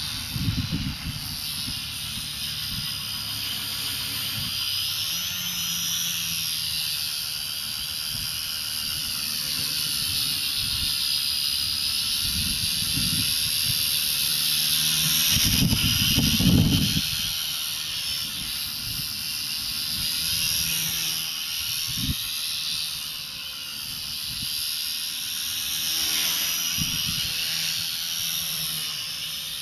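Radio-controlled coaxial helicopter with a 150-watt brushless motor, in flight: a high electric whine whose pitch wavers up and down as the throttle changes, over the rotor noise. Low rumbling gusts come now and then, loudest about halfway through.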